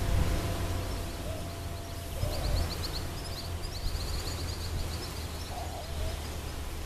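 Outdoor ambience with a steady low rumble, and a bird singing a rapid trill of short high notes from about two to five seconds in.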